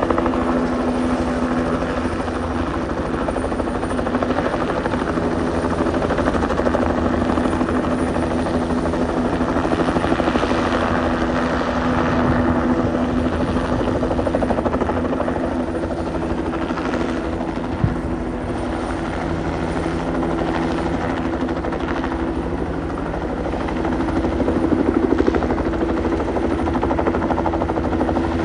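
Rescue helicopter coming in to land close by: steady rapid rotor chop with a constant engine whine, swelling a little near the end. A single brief sharp click about two-thirds of the way through.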